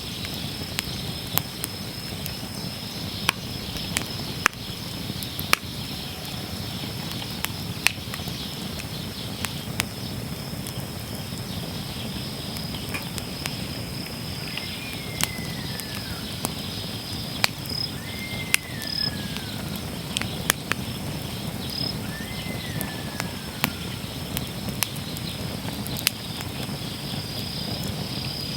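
Wood fire burning in a steel fire pit, crackling with sharp pops every second or two over a low steady burning rush. A steady high insect trill runs beneath, and three short falling whistles come in the second half.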